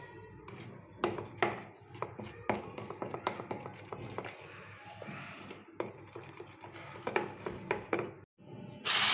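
Cake batter being beaten by hand in a bowl, the utensil clicking and tapping irregularly against the bowl's sides. Near the end the sound cuts out briefly, then a loud, steady whirring of an electric beater starts.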